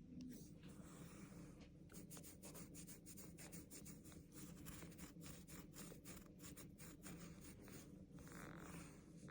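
Faint scratching and rubbing, with a quick run of small clicks through the middle.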